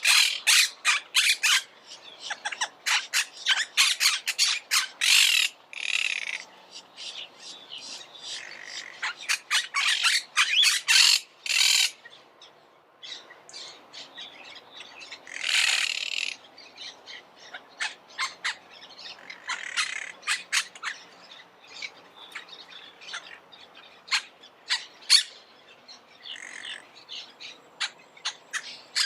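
Monk parakeets calling: rapid runs of sharp, high chattering calls mixed with longer harsh squawks, busiest in the first half and thinning to scattered chirps later.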